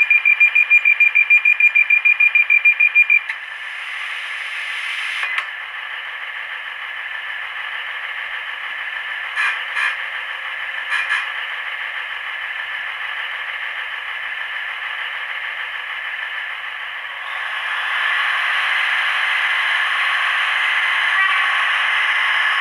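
Recorded Class 156 diesel multiple unit sounds from a DCC sound decoder, played through a small model-railway speaker. It opens with a rapid high beeping that stops about three seconds in. The engine then runs steadily, with a click about five seconds in and a few short bursts around ten seconds, and grows louder about seventeen seconds in.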